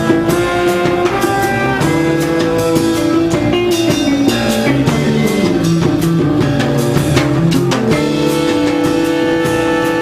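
A jazz quintet playing live: sustained chords over a busy drum kit with frequent cymbal and drum hits. The harmony shifts to a new held chord about eight seconds in.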